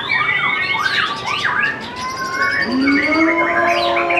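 Several white-rumped shamas (murai batu) singing at once: a dense tangle of whistles and fast chattering sweeps. A low steady tone comes in a little past halfway.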